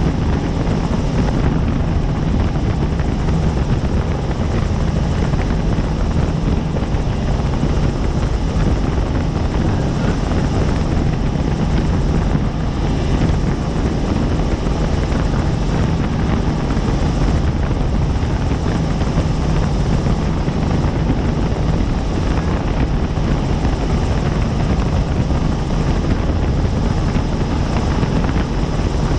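Helicopter rotors and turbine engine running steadily in level flight, heard from inside the cabin as a dense, unbroken drone with a strong low hum.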